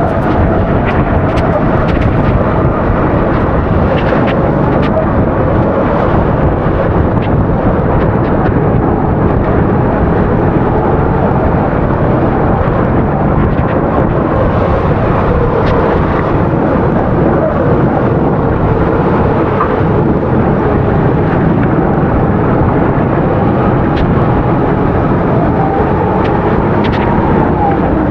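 270cc kart's single-cylinder four-stroke engine running at racing speed, its pitch drifting up and down, under a dense rushing noise with a few scattered clicks.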